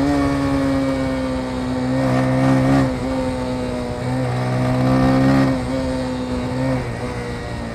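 Motorcycle engine running under way, its note climbing a little and then dropping twice, about three and five and a half seconds in, as the bike accelerates and changes gear.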